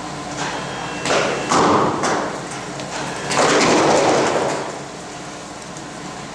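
Molten zinc in a hot-dip galvanizing bath popping and spattering violently as a steel frame is lowered into it. There are several loud outbursts, the longest about three seconds in, and the popping is probably caused by the heat difference between the frame and the bath.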